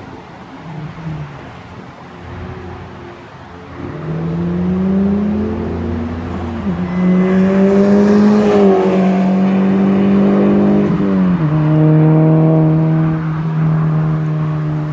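Tuned turbocharged four-cylinder car with a catless downpipe and Magnaflow cat-back exhaust accelerating hard. Quiet at first, the exhaust note comes in about four seconds in and rises in pitch, drops sharply at three upshifts, then holds steady near the end.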